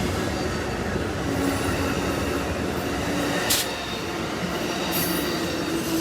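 Amtrak passenger train passing, a steady rumble and rush of wheels on rail, with one brief sharp sound about three and a half seconds in and a faint steady tone coming in near the end.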